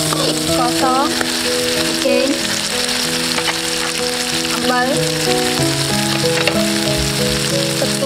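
Onions, chillies and aromatics sizzling steadily in hot oil in a steel wok as they are stir-fried with a metal spatula. A melody plays underneath throughout.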